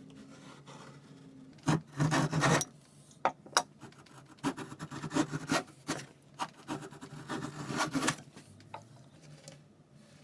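Hand tool scraping and rubbing on wood: a brief bout of strokes about two seconds in, then a run of short, irregular strokes.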